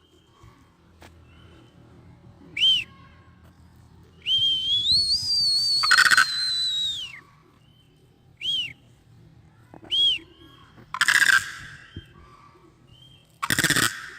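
Crane calls: short high whistled notes that rise and fall, and one longer whistle about four seconds in lasting about three seconds. Three short harsh bursts stand out, the last two being the loudest.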